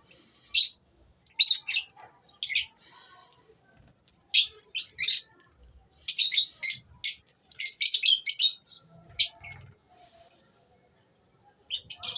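A flock of lovebirds calling with short, sharp, high-pitched chirps, some single and some in quick runs, busiest around the middle.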